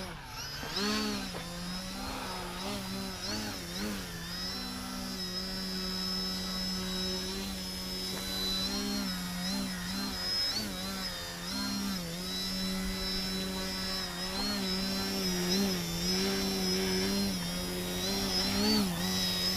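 Electric RC aerobatic airplane's brushless motor (Scorpion 2215, 1127kv) and 10x4.7 APC slow-flyer propeller buzzing steadily while the plane hangs in a hover. The pitch dips and jumps back up every second or so as the throttle is worked to hold the hover.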